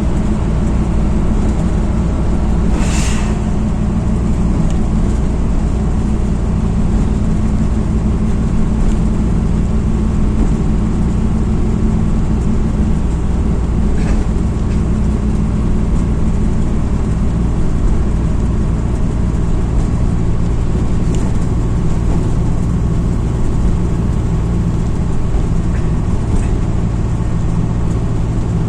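MAZ-206 city bus heard from inside as it drives: the diesel engine runs steadily with a low hum and road noise, its note shifting slightly about halfway through. A brief hiss comes about three seconds in.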